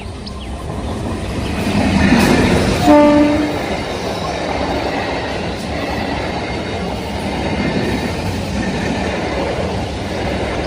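Passing train rumbling steadily, swelling about two seconds in. A short horn blast sounds about three seconds in, lasting about half a second.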